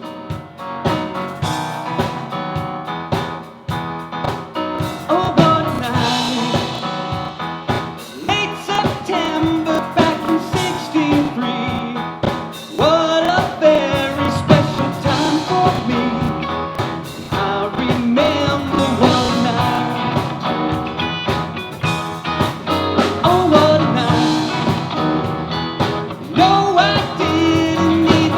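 Blues-rock band music with drum kit and guitar, and a singing voice over it.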